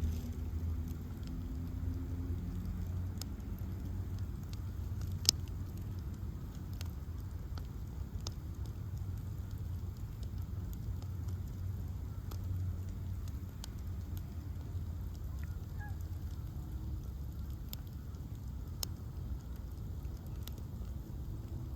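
Bonfire of ash logs burning with a steady low rush and scattered crackles and pops, one sharp pop about five seconds in.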